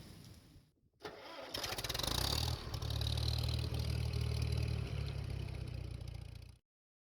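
Rain falling for a moment, then a John Deere 6320 tractor's diesel engine cranking with rapid clicks and catching, running steadily for a few seconds. The sound cuts off abruptly near the end.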